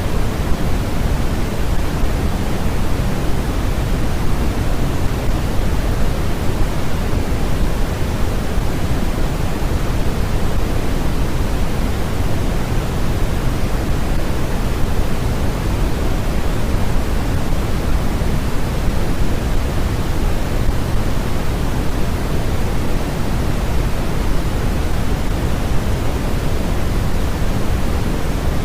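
Steady generated noise of the white-noise kind: an even, unchanging hiss with a rumble underneath, heavier in the lows than in the highs.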